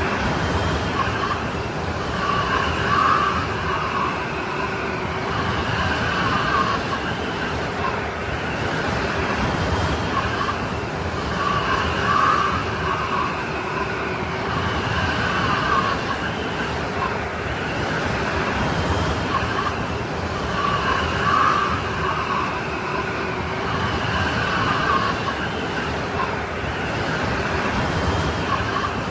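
Strong snowstorm wind blowing steadily, with a howling whistle that swells and fades in gusts every few seconds.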